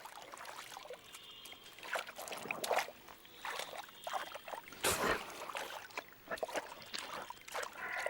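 Water sloshing and trickling as brown bears wade and feed in a bog pool, in irregular splashes, with a louder splash about five seconds in.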